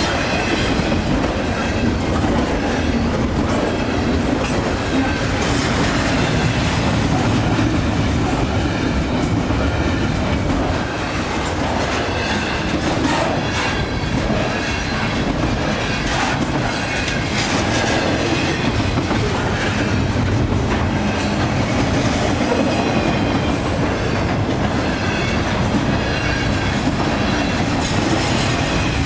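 Freight train of double-stack container well cars rolling past at speed: a steady rumble of steel wheels on the rails, with scattered sharp clicks as the wheels pass over the rail joints.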